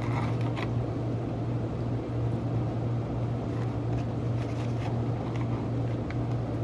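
Steady low electrical hum of a running kitchen appliance, with a few faint clicks and rustles of food being handled.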